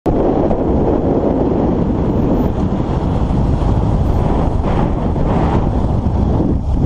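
Wind buffeting a camera microphone on a moving motorcycle, a steady loud rush with a low rumble underneath.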